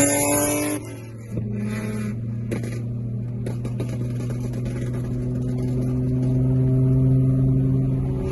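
Car engine revving up, the pitch climbing until it drops off just under a second in; after a short lull, a steady engine note that slowly grows louder.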